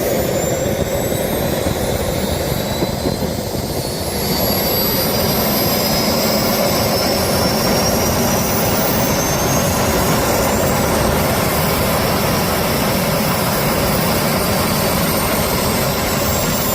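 Jet engine running on a test run, a steady rushing noise under a high whine that climbs in pitch, stepping up in loudness about four seconds in.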